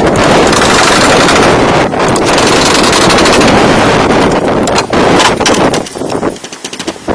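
A power tool cutting or planing wood: a loud, continuous rapid rattle that breaks off briefly twice and dies down near the end.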